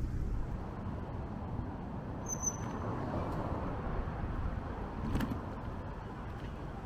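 Steady city road traffic, cars passing, heard from a moving bicycle. A brief high-pitched squeak comes about two and a half seconds in, and a short sharp click a little after five seconds.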